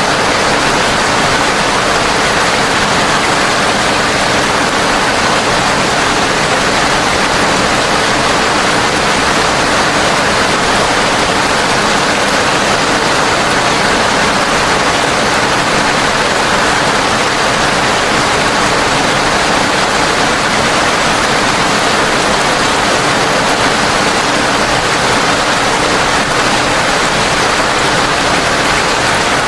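Heavy rain falling steadily: a dense, even hiss of water that holds unchanged throughout.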